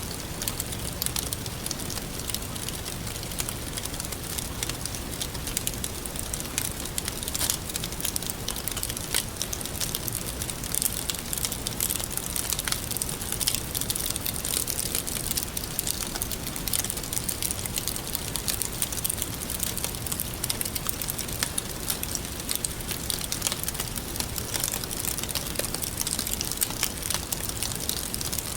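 Wood campfire crackling steadily: a dense run of small pops and snaps over a soft hiss.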